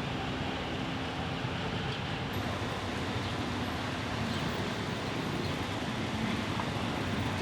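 Steady outdoor background noise: an even rumble and hiss with no single clear source.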